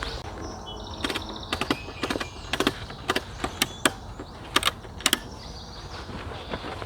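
Camping gear being handled while packing up: about a dozen sharp, irregular clicks and knocks, with a brief high squeak near the start.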